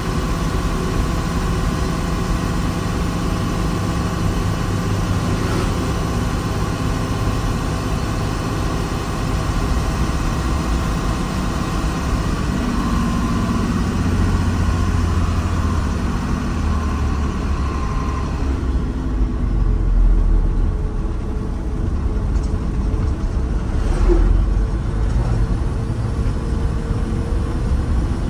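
Diesel engine of earthmoving machinery running steadily under changing load. About two thirds of the way in the higher part of the sound falls away and a lower engine note carries on, with a brief knock near the end.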